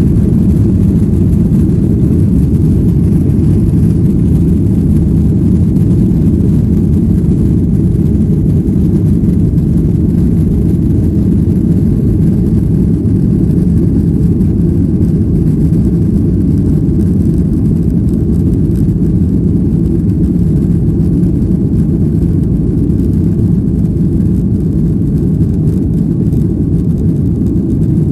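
Airliner cabin noise: the steady low rumble of the jet engines and rushing air, heard from inside the passenger cabin.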